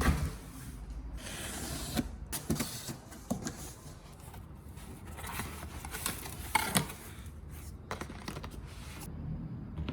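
Rustling and rubbing of things being handled, with scattered sharp clicks and light knocks, loudest just before the start and around two-thirds of the way through.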